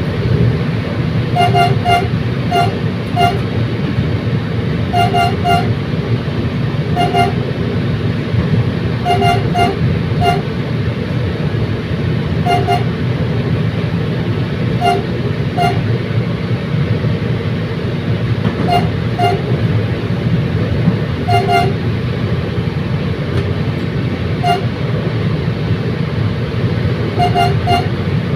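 Commuter train in motion with a steady low rumble, its horn sounding short toots every few seconds, often two in quick succession.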